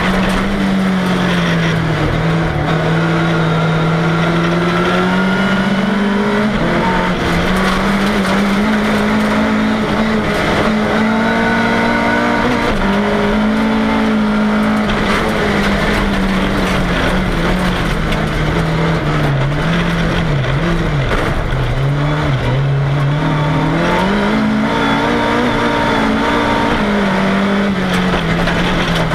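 Volvo 340 engine heard from inside the cabin while racing, its pitch rising and falling again and again as it is driven hard, with a brief deep drop about twenty seconds in.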